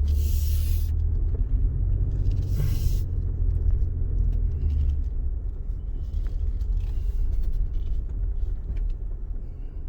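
Motor vehicle engine running with a low rumble, with two short hisses in the first three seconds; the rumble eases about five seconds in.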